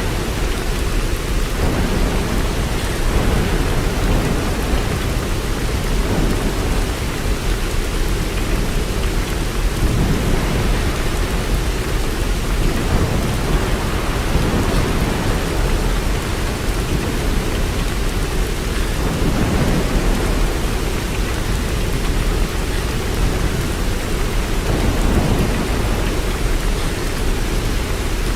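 Steady rain with a continuous hiss, and a low rumble underneath that swells and fades every few seconds.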